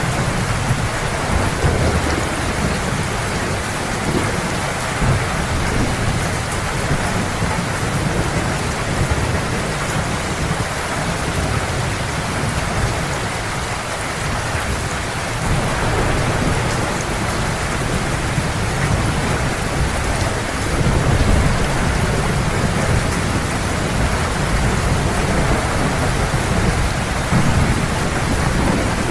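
Heavy rain falling steadily, with thunder rumbling low underneath. The rumble swells a little about two-thirds of the way through and again near the end.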